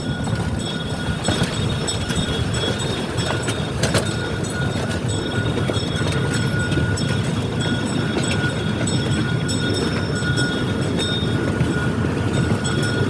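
Train in motion heard from on board: a steady rumble with scattered clicks and a thin, steady high whine.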